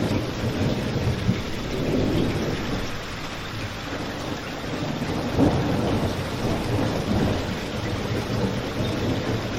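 Steady rain with a deep low rumble beneath it that swells briefly about five seconds in.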